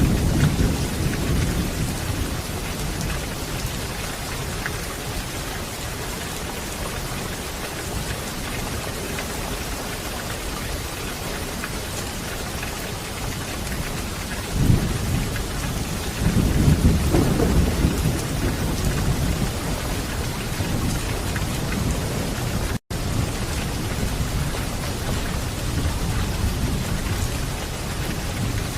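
Steady, heavy rain falling, with rolling low thunder rumbles swelling at the start and twice more in the middle.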